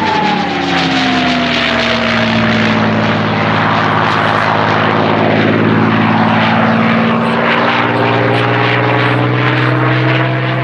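P-51D Mustang's Packard-built Merlin V-12 engine and propeller running at display power as the fighter flies past, the engine note shifting in pitch with the pass. A high whistle from the wing gun ports slides down in pitch over the first few seconds.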